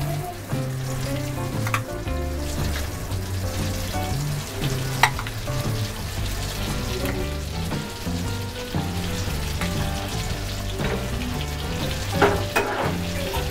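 Ground chana dal paste sizzling as it goes into hot ghee in a pan, a steady frying hiss. There is a sharp clink of a utensil against the pan about five seconds in and a few more near the end.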